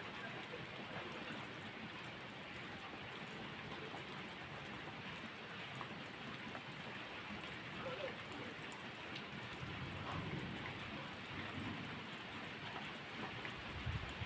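Steady rain falling, with a low rumble of thunder coming in near the end.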